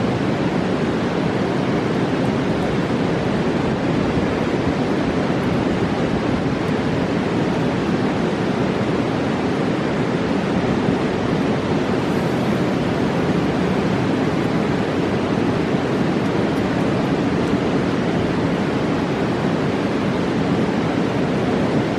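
Rushing water of a roaring mountain river, a steady dense roar that does not change.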